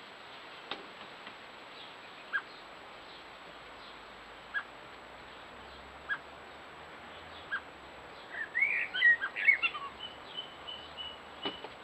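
Garden songbirds calling: a single short chirp repeated about every second and a half, then a quick burst of twittering, warbling song about eight seconds in, ending in a thin held note. A brief click or knock sounds near the end.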